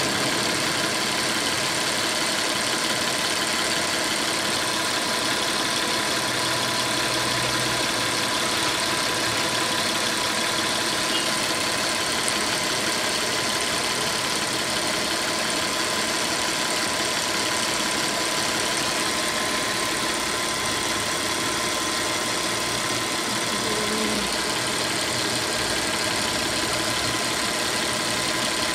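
Audi A6 2.7T's twin-turbo V6 idling steadily, heard from the open engine bay.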